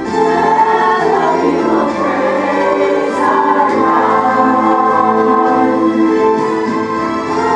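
A choir singing a song with instrumental accompaniment, held notes changing pitch throughout.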